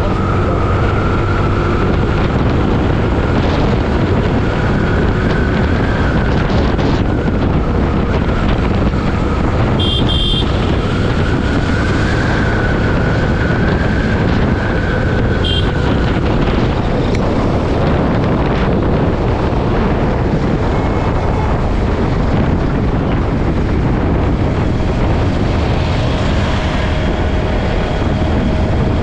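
Motorcycle riding at highway speed: wind rushing over the microphone over steady engine and road noise, with a faint whine that drifts up and down in pitch. Two brief high-pitched beeps sound about ten and fifteen seconds in.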